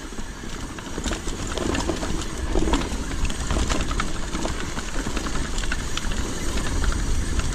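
Mountain bike riding down a rough dirt trail: wind rumbling on the microphone, with tyres on dirt and rocks and the chain and frame clattering in quick knocks over the bumps. It gets louder about a second in.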